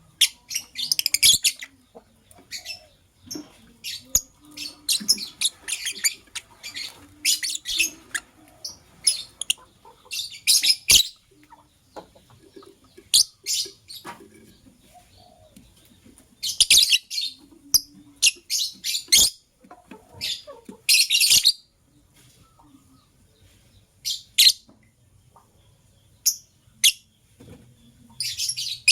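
Lovebirds chirping in quick, shrill bursts of rapid calls, each burst lasting about a second, with short pauses between them.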